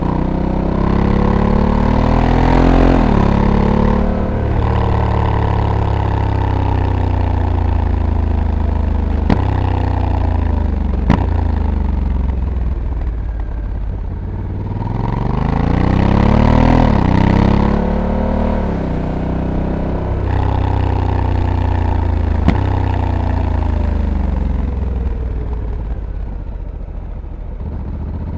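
Honda Africa Twin 1100 parallel-twin engine heard from the rider's seat while riding. It pulls up in pitch under acceleration twice and winds down in between, with sudden steps in pitch as the dual-clutch gearbox changes gear and a few brief sharp clicks.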